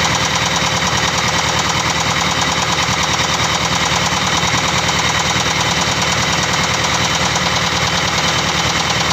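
Diesel engine running steadily with a rapid, even knocking: the engine knock that the video is about.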